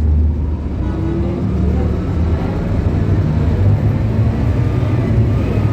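Scania K280UB bus's Scania DC9 five-cylinder diesel engine running: its low note drops just after the start, then builds again with a faint rising whine.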